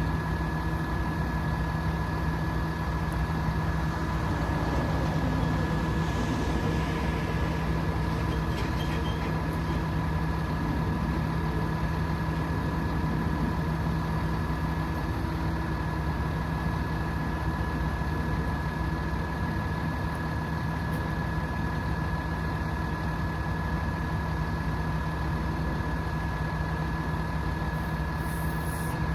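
Hino 338 truck's 7.6-litre turbo diesel running steadily at idle, with a steady high-pitched whine over its low rumble.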